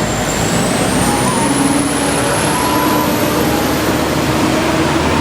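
BTS Skytrain carriage running, heard from inside: a steady rumble and rush of noise with a high whine rising slowly in pitch.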